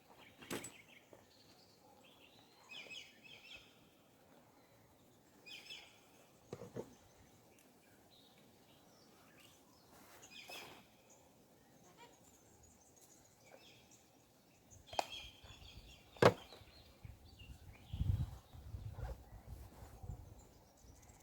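Quiet outdoor sound: birds calling in short chirping bursts every few seconds, a few sharp clicks, and low rumbling gusts of wind on the microphone near the end.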